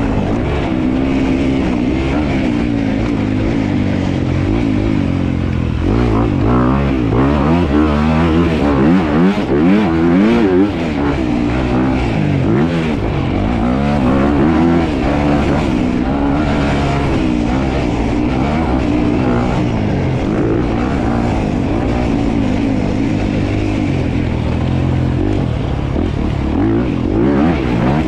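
Dirt bike engine running hard as it is ridden, its pitch rising and falling over and over with the throttle, loudest around six to ten seconds in.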